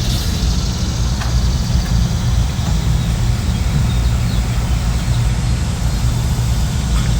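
A steady, low mechanical hum, like a motor running.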